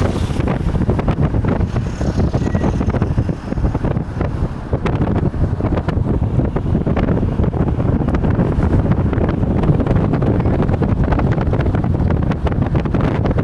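Wind rumbling on the microphone over the road noise of a moving car: a steady, loud, low buffeting throughout.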